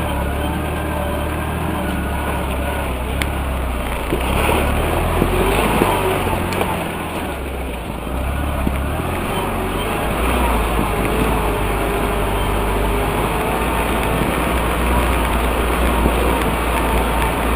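UAZ off-roader's engine running steadily under way, with a few sharp knocks along the way.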